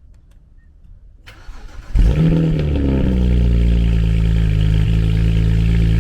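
A BMW car engine is briefly cranked by the starter, catches about two seconds in with a loud flare of revs, then settles into a steady idle.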